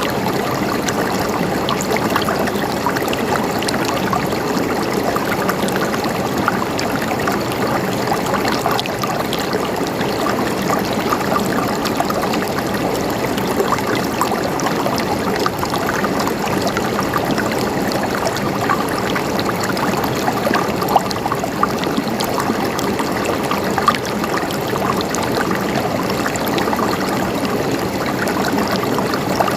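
River water running steadily over rocks, a continuous rushing and babbling with small splashes throughout.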